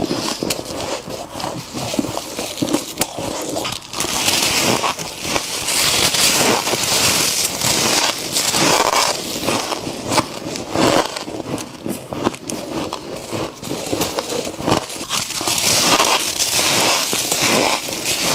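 Frost being crunched, eaten close to the microphone: a continuous run of crackling and crunching with many quick clicks and some scraping.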